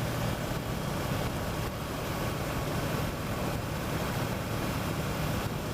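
Kawasaki Versys motorcycle cruising at a steady speed: a low, even engine hum under constant wind rush.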